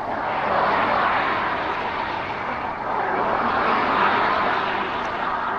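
Steady rushing road noise heard while riding along a road: wind and passing traffic. It swells about a second in and again around four seconds.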